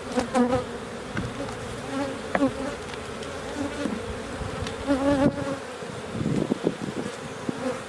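Carniolan honey bees buzzing around an open hive: a steady hum, with single bees whining past close by and their pitch rising and falling. Light knocks come near the end.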